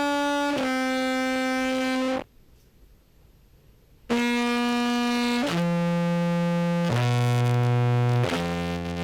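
Amplified contrabass clarinet through fuzz and a compressor, playing long held notes at an even volume. Two notes stop suddenly, then after about two seconds of near silence come four notes, each lower than the last. The compressor's threshold has been brought down to even out the notes' levels, a weak G among them.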